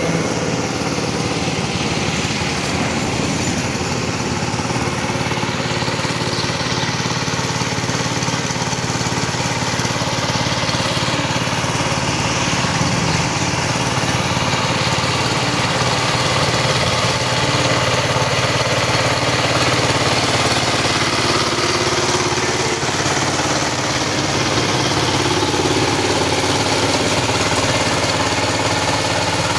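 A small engine of a ploughing machine running steadily and without a break.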